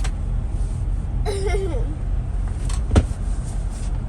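Steady low rumble of a truck engine running. A sharp click comes at the start, a child makes a brief vocal sound about a second and a half in, and a single loud knock comes about three seconds in.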